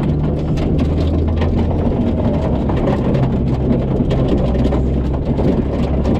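Four-wheel-drive car driving out over a muddy track, its engine running steadily with many small knocks over it; the engine note shifts about two seconds in.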